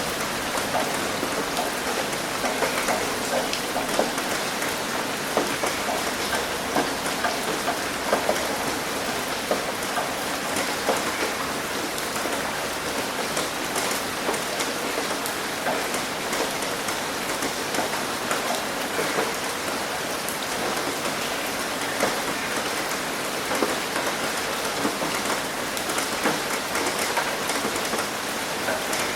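Rain hitting a roof: a steady rushing hiss with many separate drops tapping throughout.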